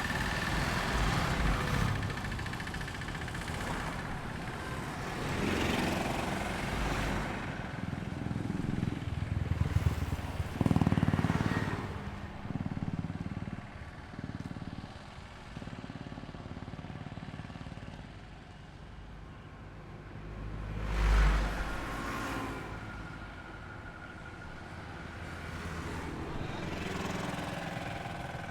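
Highway traffic: vehicles pass one after another over a steady engine drone. The two loudest pass-bys swell and fade about a third of the way through and about three-quarters of the way through, the later one with a deep low rumble.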